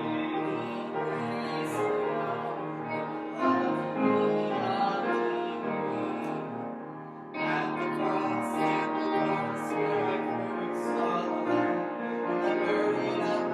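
Slow sung music with piano accompaniment, a hymn or worship song; the music dips briefly about seven seconds in, then picks up again.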